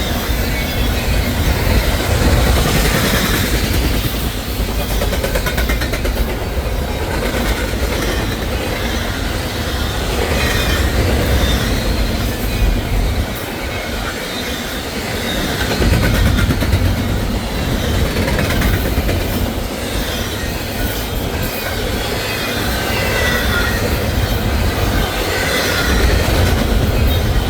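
Intermodal freight cars rolling past at speed: the wheels clatter over the rail joints in a steady rumble, with a wheel squeal now and then.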